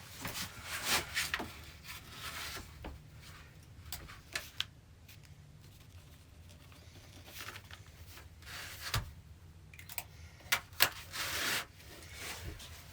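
Scattered light clicks, knocks and rustling, with a short cluster of louder clicks about two-thirds of the way through.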